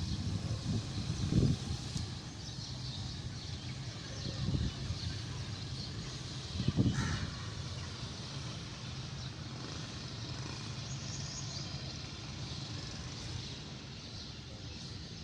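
Outdoor countryside ambience: a steady high hiss with faint bird calls, broken by three short, harsher sounds a few seconds apart, the loudest near the middle.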